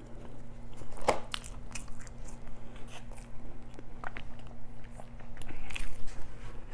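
A person chewing and biting food close to the microphone, with scattered wet mouth clicks and soft crunches.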